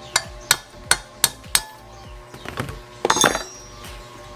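Metal tool knocking on metal engine parts: five sharp taps, about three a second, then a short clattering clink about three seconds in. This is plausibly work on removing the oil pump's oil seal from a Yamaha DT125 two-stroke engine casing.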